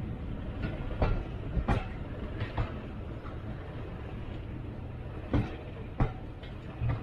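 Train on the Great Central heritage railway running along the track: a steady low rumble with irregular sharp clunks of the wheels going over rail joints.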